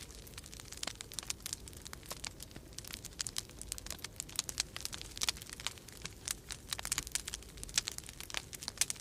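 Wood fire crackling in a fireplace: a steady run of irregular sharp snaps and pops, some louder than others, over a faint low rumble of storm wind.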